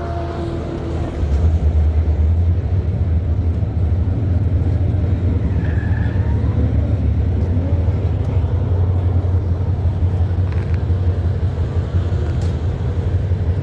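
Car engines running with a steady low rumble, getting a little louder about a second in.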